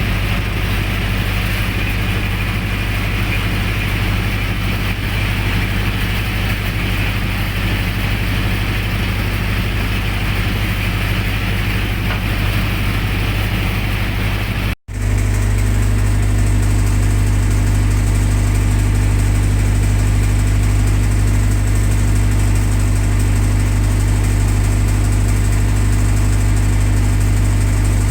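Generator set engine running steadily at constant speed. It cuts out for an instant about halfway through, then continues a little louder.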